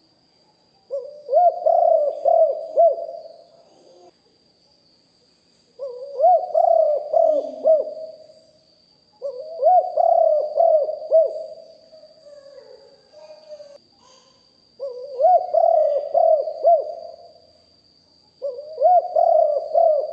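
Spotted dove cooing: five phrases, each a quick run of four or five coos, repeating every three to five seconds.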